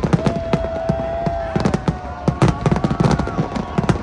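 Fireworks going off in a rapid, irregular string of sharp bangs and crackles, several a second, along with a few long steady tones.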